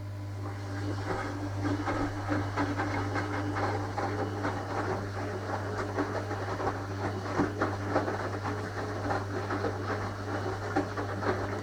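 Washing machine drum turning, with laundry and water sloshing and clattering over a steady low motor hum; the tumbling starts just after the beginning and stops near the end.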